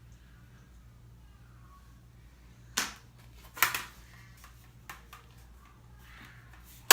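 Sharp clicks and taps from handling makeup products and tools: one a little under three seconds in, another soon after with a brief rustle, a faint one near five seconds, and the loudest right at the end.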